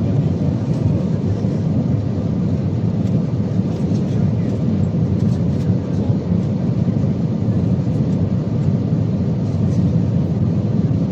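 Steady low rumble inside an Airbus A320 passenger cabin, from its jet engines and airflow, during the landing phase.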